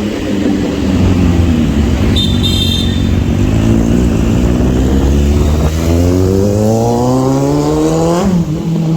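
Motorcycle engine running; its pitch falls, then climbs steadily over about three seconds as it revs or accelerates, and drops sharply near the end. A short high beep sounds a couple of seconds in.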